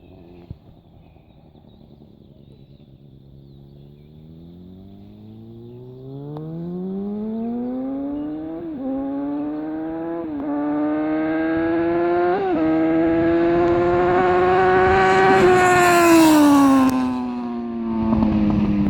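Yamaha FZ6N inline-four running through an aftermarket Ixil exhaust, accelerating and growing louder as the revs climb. The rising note breaks into three short dips at the upshifts. Near the end the pitch falls away.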